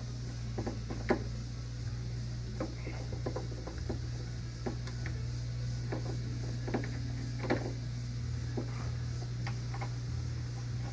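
Irregular small metallic clicks and taps as the door latch's T27 Torx screws are refitted by hand, over a steady low hum. The loudest clicks come about a second in and again past the middle.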